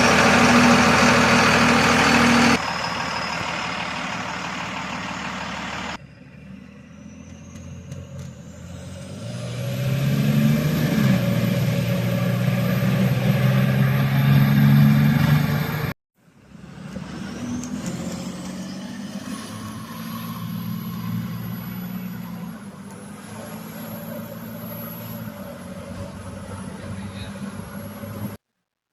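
A diesel pickup engine running, in a string of short clips with abrupt cuts between them. In two of the clips the engine note climbs and a high whine rises in pitch and then holds steady.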